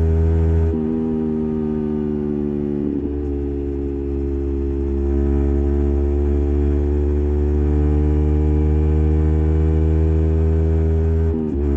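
Yamaha MT15's 155 cc single-cylinder engine running through an SC Project full-system exhaust with silencer while riding. The note drops about a second in, breaks briefly around three seconds, then rises slowly as the bike gathers speed, with another dip and break near the end.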